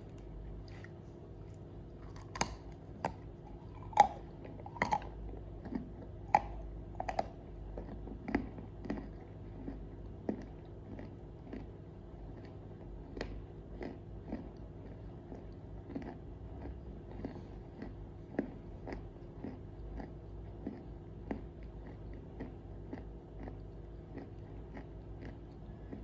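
Close-miked biting and chewing of crunchy pieces of edible clay. Sharp crunches are loudest in the first several seconds, then give way to a run of smaller crunches about two a second.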